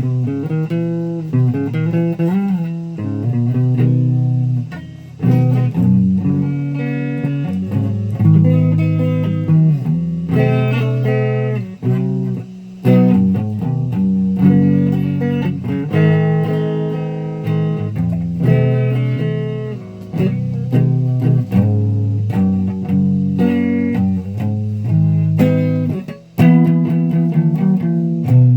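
Guitar being played: a run of sharply picked notes, many of them held and ringing, with strong low notes underneath.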